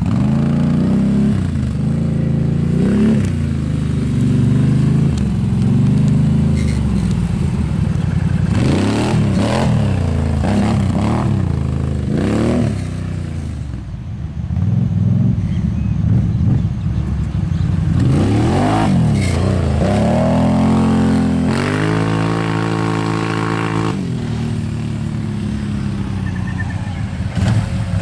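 Bombardier motorbike engine running under throttle, revving up and falling back again and again, with a steady held note for a couple of seconds in the latter part.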